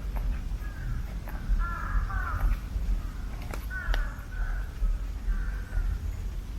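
A crow cawing repeatedly, harsh calls coming every second or so, some in quick pairs, over a steady low rumble with a few sharp ticks.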